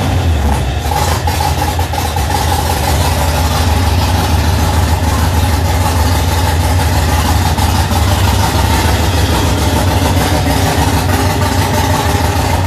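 Cammed 6.0 L LQ4 V8 in a Trans Am, built with 317 heads, a Comp LSR cam and a FAST 102 mm intake, idling steadily on its first run after the build.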